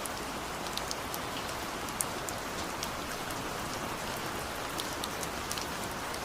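Steady rain falling, with a constant hiss and scattered drip and patter ticks of individual drops hitting surfaces.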